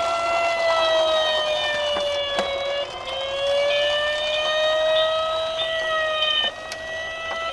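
Emergency-vehicle siren wailing, its pitch sliding slowly down and back up in long sweeps of about three seconds, with a few faint clicks.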